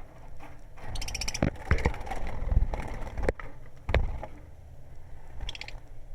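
A lovebird gives a short burst of shrill chattering calls about a second in, and a brief squeak near the end. In between come several sharp knocks and low thumps of handling or movement.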